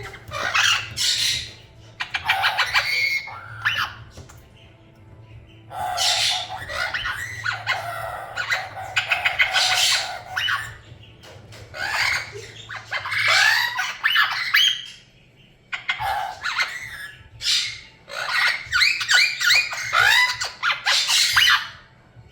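Pet parrots squawking and chattering loudly in about six bouts of high, pitch-bending calls, with short pauses between them.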